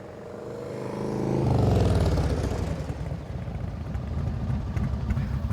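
Motor vehicle engine running, growing louder over the first two seconds, then a steady low rumble.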